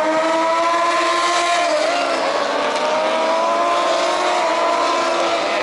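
Racing motorcycle engines running on the circuit, their pitch rising and falling slowly as the bikes go through the corners.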